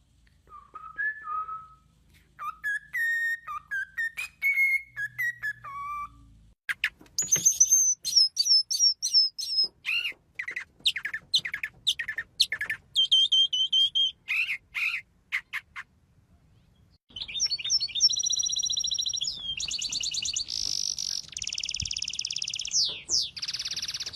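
Songbirds singing and calling: a run of varied whistled phrases, then sharp high chirps and quick falling notes, then rapid buzzy trills through the last third.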